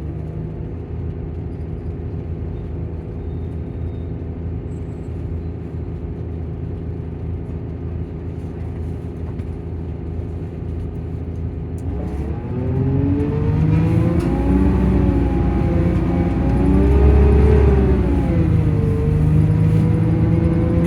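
Engine and cooling fan of a Volvo coach with Plaxton bodywork, running steadily. About twelve seconds in the sound gets louder and its pitch rises, then swings up and down as the revs or fan speed change.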